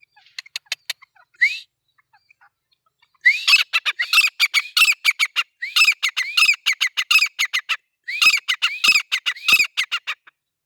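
Grey francolin (teetar) calling: a few soft notes and one rising note, then from about three seconds in a loud, fast run of repeated rising notes, broken by a short pause before a second run.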